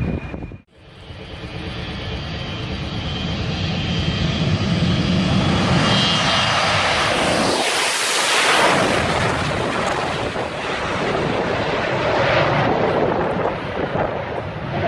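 Airplane engine noise, starting after a sudden cut about half a second in and building to a loud steady roar. It is brightest around eight seconds in, as the plane comes closest.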